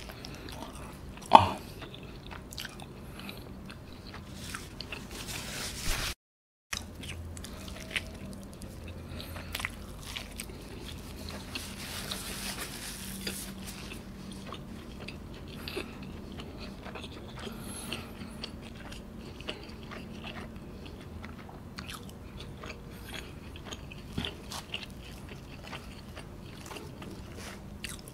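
Close-up chewing and biting of a cheesy pizza slice with its bread crust, with many small wet mouth clicks throughout. A single sharp click stands out about a second in, and the sound drops out completely for about half a second around six seconds in.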